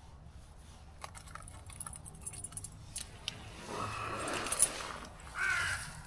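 Light clicks and clinks of small objects being handled, then a rustling swell with a sharp click about four and a half seconds in. A crow caws once near the end.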